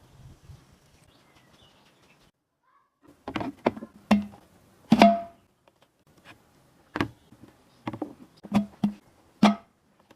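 A quiet stretch, then a string of sharp knocks in an uneven rhythm, about nine in six seconds, several ringing briefly.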